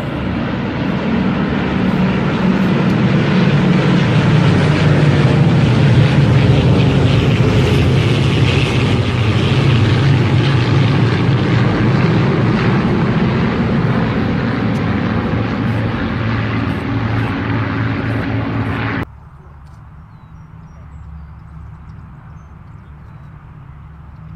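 Airplanes flying over in formation: loud engine noise that swells over the first few seconds and holds steady. It cuts off abruptly about three-quarters of the way through, leaving a much quieter low hum.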